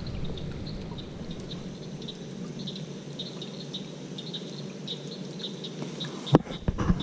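Steady chorus of short, high chirps from small creatures, repeating irregularly over a low outdoor rumble, with a few sharp clicks and knocks near the end.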